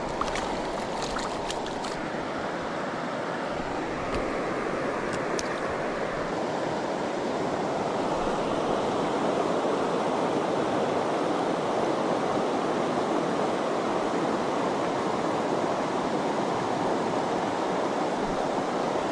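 Steady rush of river water flowing, getting a little louder after about eight seconds, with a few faint ticks in the first seconds.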